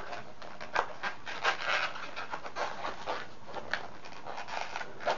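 Inflated latex balloons rubbing against each other and the fingers while their knotted ends are tied together: a string of short, irregular scrapes.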